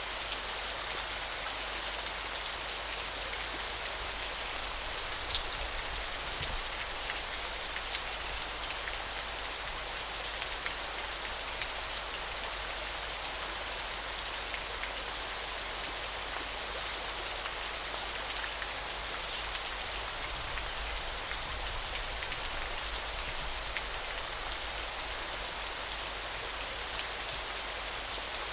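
Steady hiss and rush of flowing river water. Over it, a thin high trill repeats in phrases about a second long with short breaks, stopping about two-thirds of the way through.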